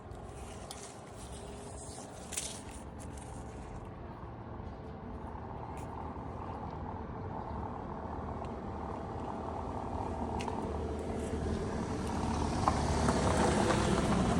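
A vehicle engine running and getting steadily louder, with a couple of faint clicks.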